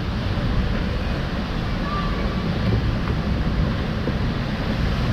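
Wind rumbling on the microphone over the rush of water along a log flume channel, a steady noise with no distinct events.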